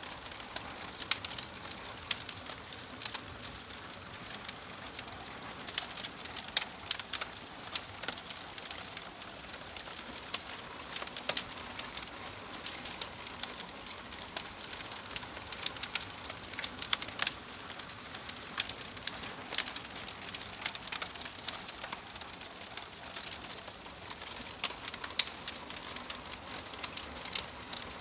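Wood fire in a fireplace crackling, with a steady soft hiss and frequent sharp pops at irregular intervals.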